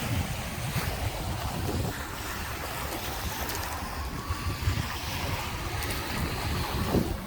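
Lake Michigan waves washing onto the beach, with wind buffeting the microphone in a low, uneven rumble.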